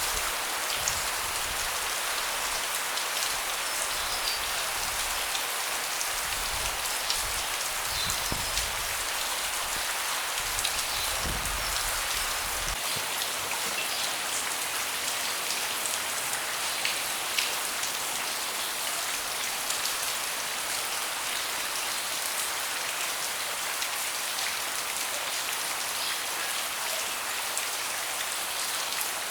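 Steady rain falling on a deck: an even hiss with many separate drops ticking through it. A low rumble sits underneath for the first part and stops about halfway.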